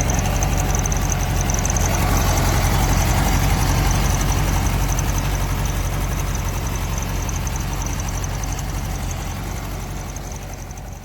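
1973 Volkswagen Super Beetle's air-cooled flat-four engine idling steadily, fading out near the end.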